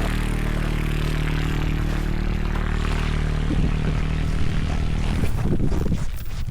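ATV engine running steadily under load, pulling a round hay bale by chain through snow. About five seconds in there is a burst of scraping and clattering, and the engine eases off near the end.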